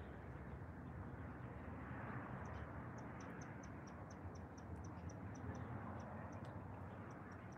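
A small bird chirping: a quick run of short, high chirps, about four to five a second, over a steady low background rumble.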